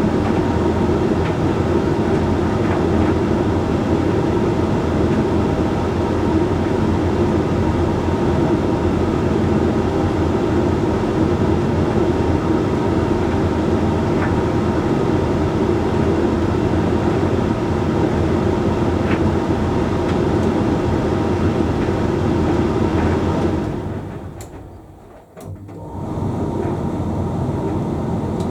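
Hoover Link X Care condenser tumble dryer running a drying cycle: steady hum and drum rumble. Near the end the sound drops away for about two seconds, with two faint clicks, then starts up again.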